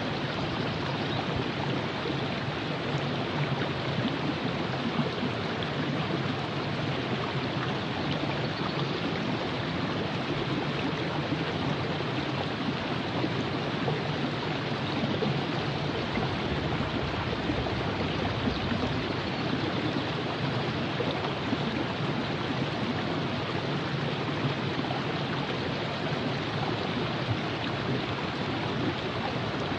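The Virgin River flowing: a steady, even rush of running water.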